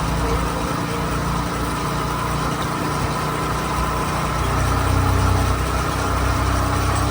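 Motorcycle taxi engine running steadily under a rider and passenger, with road and wind noise; the low engine hum grows stronger about four and a half seconds in.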